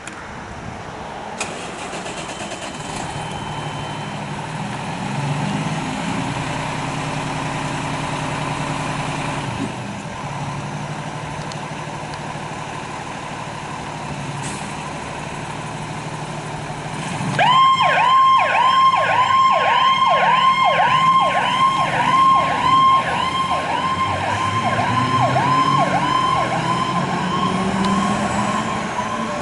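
Heavy emergency vehicle's engine running and pulling away for about seventeen seconds. Then an electronic siren starts up in a fast yelp, two to three quick falling sweeps a second, over the engine as it accelerates.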